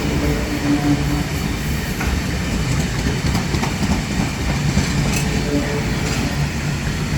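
Freight train rolling past, its wagons rumbling with wheels clicking over the rail joints; a steady diesel engine hum fades out in the first second.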